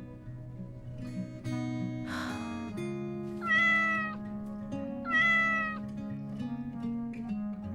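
Domestic cat meowing twice, two long drawn-out meows about a second and a half apart, over background music with plucked guitar.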